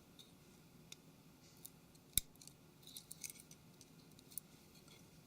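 Faint clicks and light taps from handling a smartphone's small internal parts, with one sharper click about two seconds in, as the USB and microphone flex cable is pressed back onto the main board.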